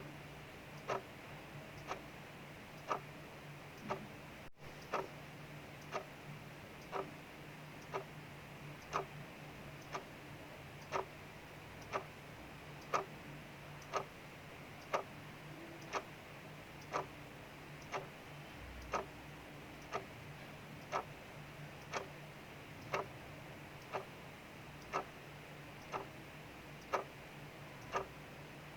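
Clock ticking about once a second, each tick a sharp, even click. Rain hisses steadily behind it.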